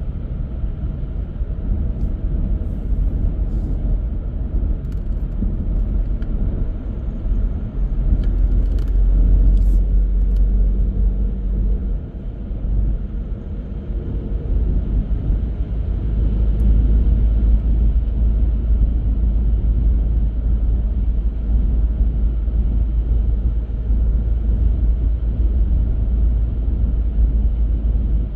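Car driving along a road: a steady low rumble of engine and tyre noise. It eases off briefly about twelve seconds in and grows louder again a few seconds later.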